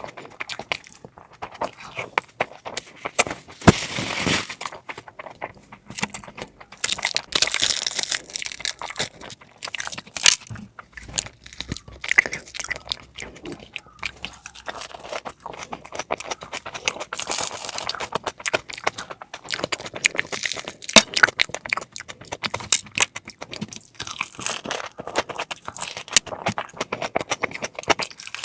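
A person eating, close to the microphone: chewing, tearing and crunching food, with many small irregular wet clicks and short louder bursts.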